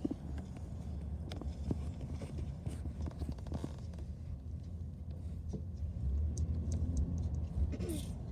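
Steady low rumble of a car on the move, heard from inside the cabin, with scattered small clicks and rattles.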